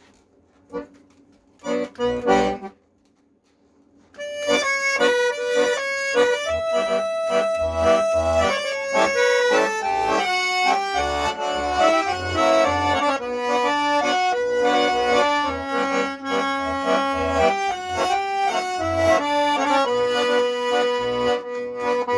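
Accordion playing an instrumental introduction to a song. A few short chords come about two seconds in, then a brief pause. From about four seconds there is a continuous melody of held notes over regular bass notes.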